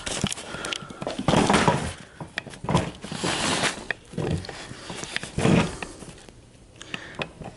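Irregular knocks, scrapes and rattles of metal parts being handled and moved, several separate noisy bursts with sharp clicks between them.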